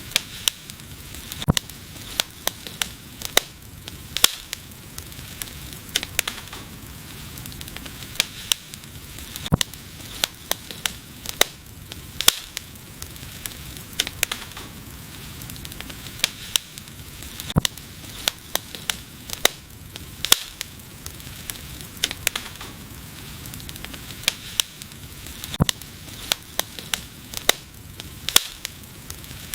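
Wood fire burning and crackling: frequent sharp, irregular pops and snaps over a steady soft hiss of the flames.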